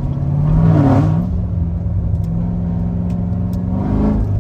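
Supercharged LT4 V8 of a C7 Corvette Z06, heard from inside the car, running at a steady cruise with a low rumble. Its note steps up about a second in and shifts again near the end as the automatic changes gears.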